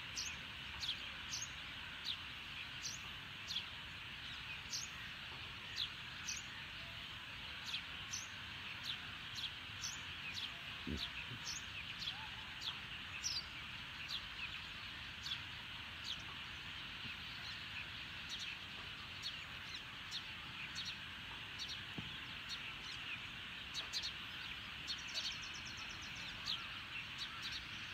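Birds chirping: short, high, falling chirps about once a second over a steady background hiss.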